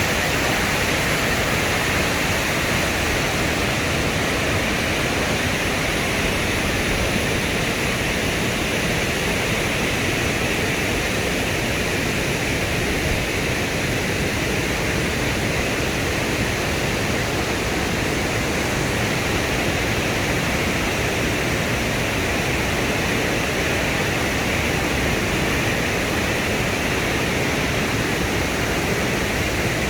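Waterfall: falling water making a steady, loud rushing noise that does not change.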